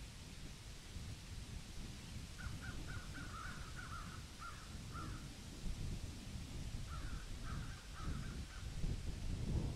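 Birds calling outdoors, two quick runs of short repeated calls, about four a second, over a continuous low rumble.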